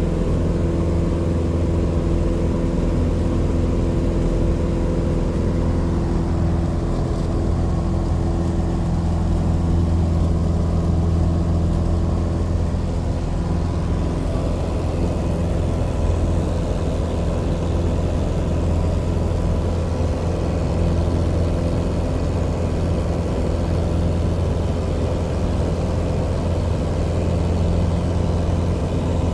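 Legend Cub light aircraft's piston engine and propeller running steadily, a constant drone with only a slight shift in tone early on.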